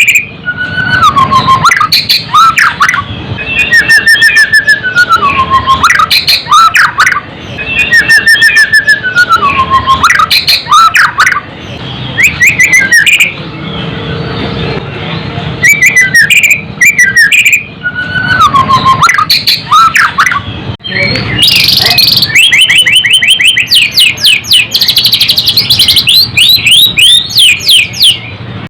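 White-rumped shama (murai batu) singing loudly in repeated whistled phrases that slide downward. About two-thirds of the way through it breaks into a long, rapid, high chattering trill.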